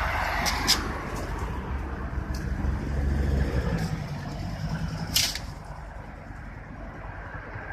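Air ambulance helicopter's rotor and engine drone, low and fading as it flies away, with wind buffeting the microphone and a couple of sharp clicks, one about five seconds in.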